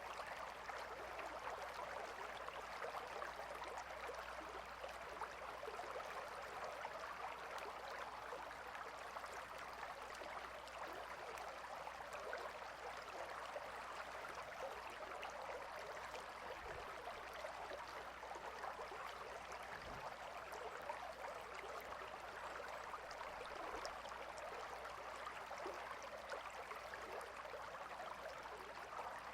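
Gentle river water flowing steadily, a continuous soft babbling rush.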